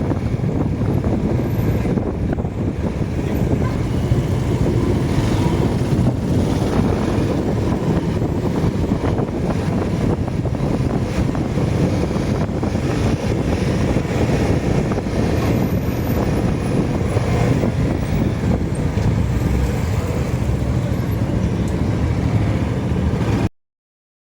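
Steady vehicle and road noise, a dense low rumble of traffic on the move, that cuts off suddenly near the end.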